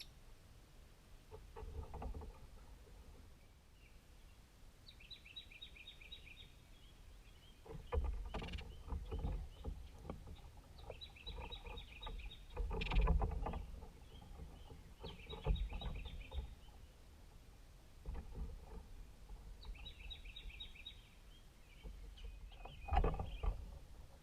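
A songbird singing a short, quick run of high notes, repeated about every four to five seconds. Low rumbling thumps come and go between the phrases and are the loudest sounds.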